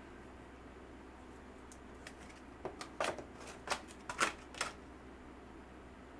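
Trading cards being handled and flipped through: a run of about six short, sharp card clicks and snaps between two and a half and five seconds in.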